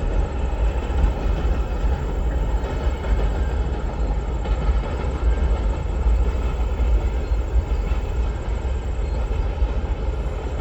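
A long train rolling past at close range, with its rail cars keeping up a steady rumble and clatter.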